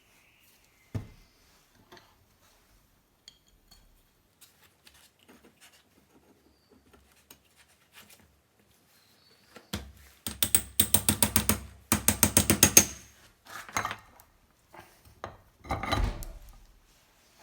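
A ratchet clicking rapidly and evenly, about seven clicks a second for roughly three seconds, followed by a few shorter bursts of metallic clatter. There is a single knock about a second in.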